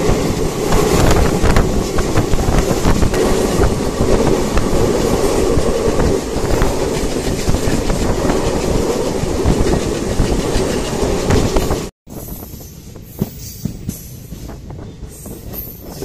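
Passenger train of ICF coaches running along the track: a loud, steady rolling clatter of wheels on rails. About twelve seconds in it cuts off abruptly to a much quieter, lighter clatter with scattered clicks.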